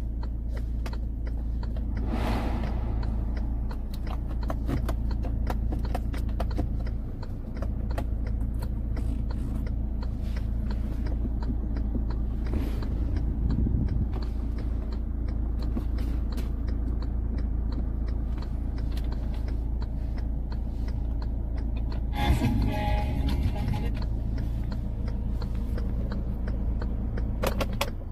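Car engine idling, heard from inside the cabin of a 2016 Hyundai Avante AD, as a steady low hum with small clicks of dashboard buttons being pressed.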